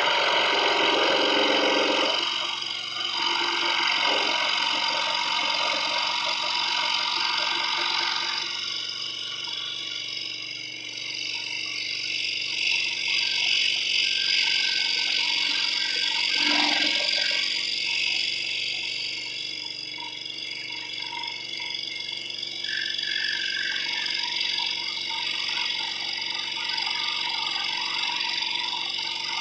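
Scroll saw running and cutting wood, a steady mechanical buzz whose sound shifts a couple of times as the blade works through the cut.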